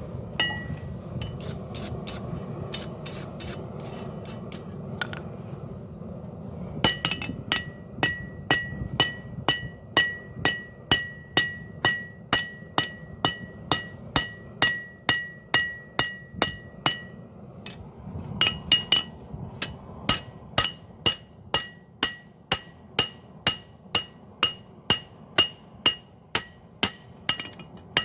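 Hand hammer striking hot high-carbon steel on an anvil in a steady rhythm of about two blows a second, each blow ringing. A few lighter taps come first, the steady hammering starts about seven seconds in, and it stops briefly past the middle before resuming. A steady low rush runs underneath.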